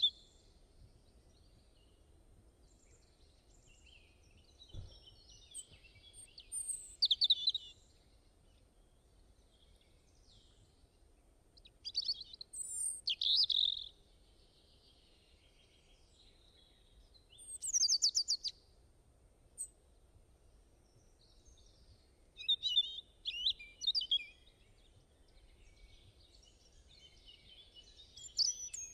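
Songbirds singing: short, high-pitched song phrases of rapid notes every few seconds, with quiet gaps between, over a faint steady background hiss.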